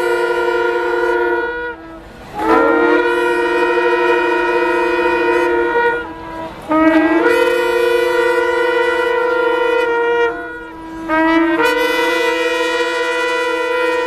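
Shofar (ram's-horn trumpet) sounded in long held blasts of about three to four seconds each, with brief breaks for breath between them. Each blast starts with a short upward slide in pitch before settling on a steady note.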